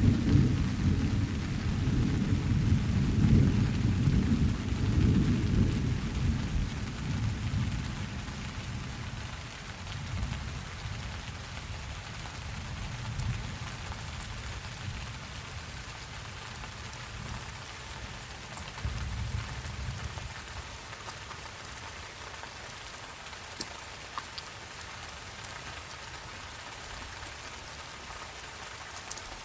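Steady rain with a long, low roll of thunder in the first several seconds that dies away, then a fainter rumble about two-thirds of the way through.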